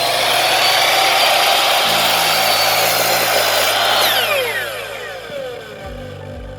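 Electric miter saw running at full speed as it cuts through a board, with a steady high whine. About four seconds in it is released and its electric brake winds the blade down, the whine falling in pitch and fading.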